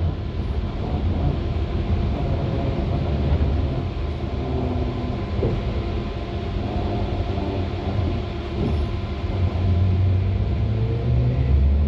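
SVARZ-6235 trolleybus on the move, heard aboard: a steady low rumble of the electric drive and the road, with faint whining tones that shift in pitch.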